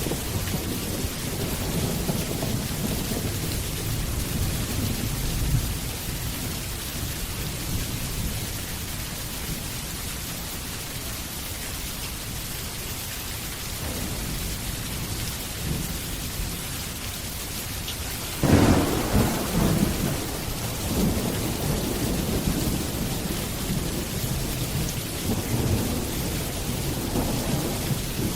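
Steady rain with rolling thunder: a low rumble in the first few seconds, then a sudden loud thunderclap about two-thirds of the way through that rumbles on to the end.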